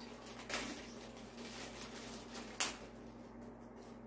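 Small handling sounds: a brief rustle about half a second in, then a single sharp knock near the middle, over a faint steady hum.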